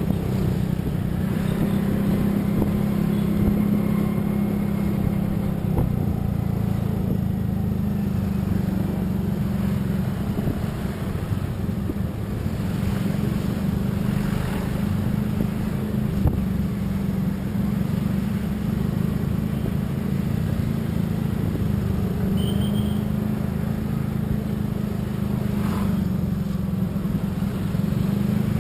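A motor vehicle on the move: its engine drones steadily, with road noise.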